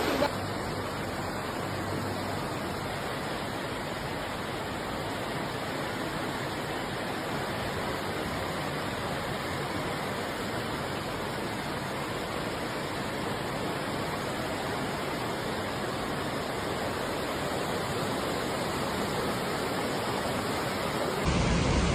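Floodwater rushing fast, a steady even wash of water noise without pause. It changes abruptly just before the end.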